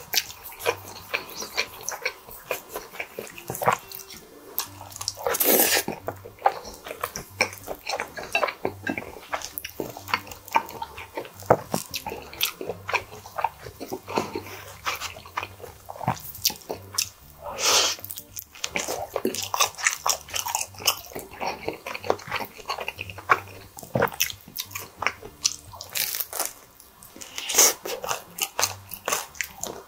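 Close-miked eating: chewing and lip smacking on squid ink spaghetti and crunchy bites of pizza crust, with many short clicks and smacks and a few longer, louder mouth noises. Wooden fork and spoon click against the plate.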